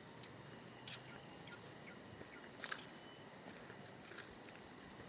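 Faint outdoor ambience: a steady high-pitched insect drone, with three short soft ticks spaced about every second and a half.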